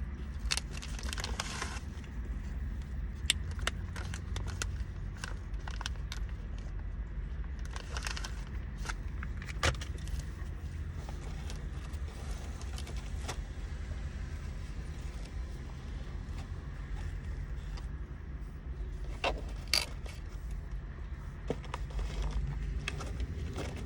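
Steady low vehicle rumble with scattered sharp clicks and handling noises from food and packaging being moved about.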